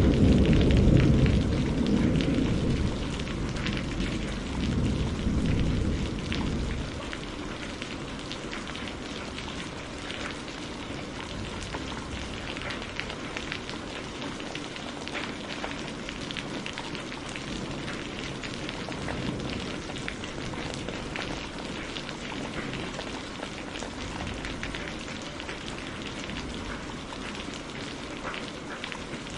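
Steady rain falling, an even hiss full of fine drop ticks. A deep low rumble at the start dies away over the first several seconds, leaving only the rain.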